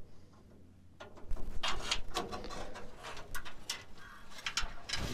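Steel brake lines being worked loose and pulled along a truck frame: scattered light metallic clicks, taps and scraping, starting about a second in.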